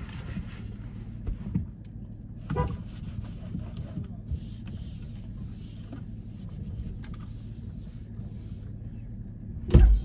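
Car engine idling, a steady low hum heard from inside the cabin, with a few light knocks and rustles as things are handled and one loud thump near the end.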